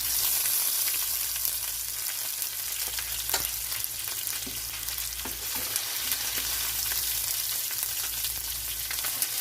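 Chicken and potatoes sizzling in a pan on low heat: a steady frying hiss with a few small clicks.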